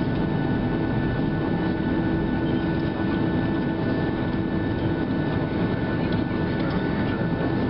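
Steady cabin noise inside a Boeing 737-700 with its CFM56-7B engines running: a constant low rumble with a few faint steady whining tones above it.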